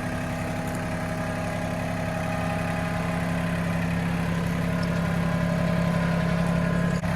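Diesel engine of a Mahindra 1626 compact tractor running steadily at raised throttle while the tractor is driven in a circle, growing slightly louder.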